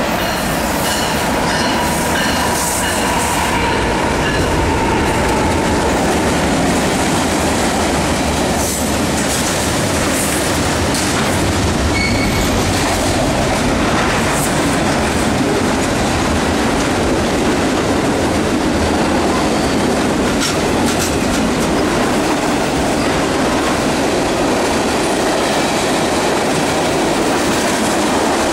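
CN freight train passing close by: its diesel locomotives approach and go by, then a long string of intermodal well cars and tank cars rolls past in a steady loud rumble with wheel clatter. A high whine sounds in the first few seconds.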